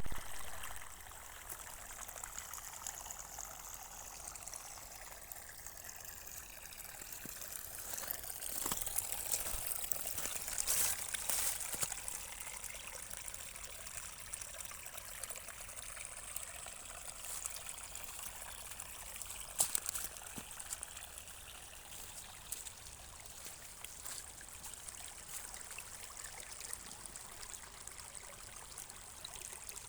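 Small stream of water trickling and running, a steady splashing that swells louder for a few seconds about a third of the way in, with a couple of brief knocks.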